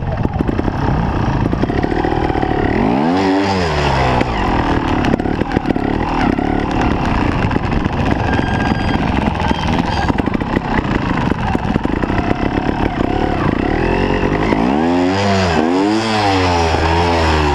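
Trials motorcycle engine running, blipped up and down on the throttle about three seconds in and several more times near the end.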